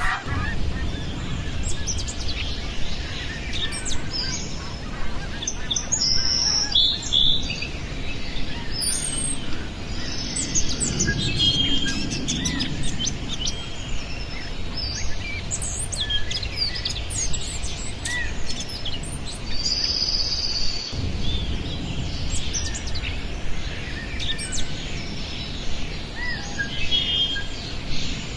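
Several small songbirds chirping and calling, many short overlapping chirps and trills throughout, over a steady low rumble.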